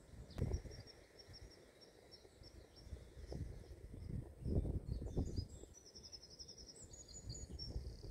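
Birds singing in quick runs of repeated high chirps, over low dull thuds and rumbles, the loudest about half a second in and again around the middle.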